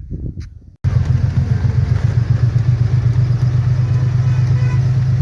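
Truck engine running at a steady low rumble under way. It starts suddenly about a second in.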